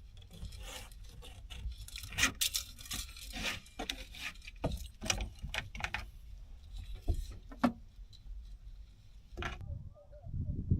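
Irregular clicks, knocks and scrapes of small objects being handled, over a steady low rumble of wind on the microphone.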